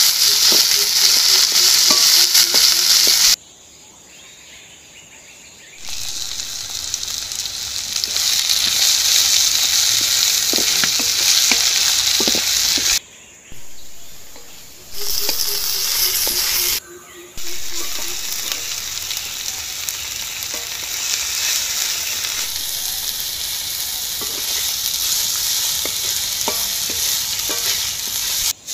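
Vegetable pieces sizzling in hot oil in a wok, stirred with a spatula scraping the pan. The sizzle is loud and steady, with a few quieter breaks.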